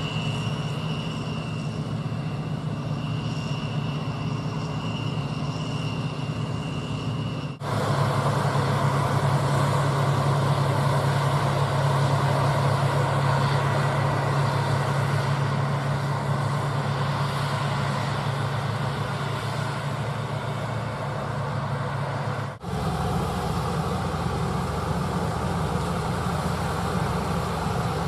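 Diesel engines of harvest machinery (combine harvesters and tractors) running steadily, with a steady high whine over the engine noise at first. The sound changes abruptly twice, about seven and twenty-two seconds in, as one machine's running noise gives way to another's.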